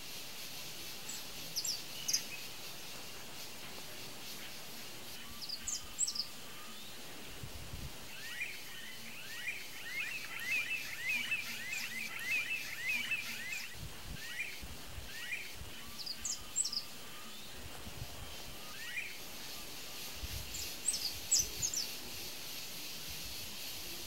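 Birds calling in the background over a steady outdoor hiss: short high chirps come in small clusters, and a fast chattering run of quick descending notes starts about a third of the way in and lasts about five seconds. A few brief low thumps are heard in the second half.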